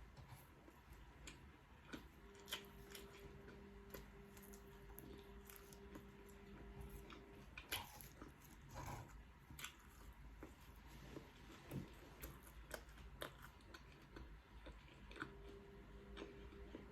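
Close-miked chewing and biting of food, with scattered soft crunches and mouth clicks, faint overall.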